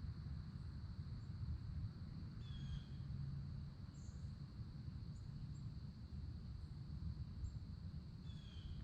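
Outdoor ambience: a steady low rumble under a steady high-pitched drone, with two brief falling bird chirps, one about two and a half seconds in and one near the end.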